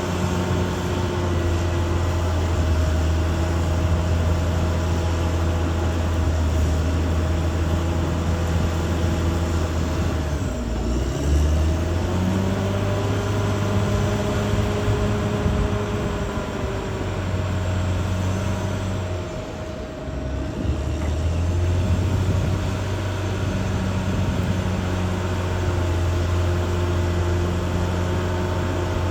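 Caterpillar D6R XL bulldozer's diesel engine working under load, with a steady whine running over the engine note. The engine pitch sags and then climbs back about ten seconds in, and the sound eases off briefly around twenty seconds in, as the load on the dozer changes.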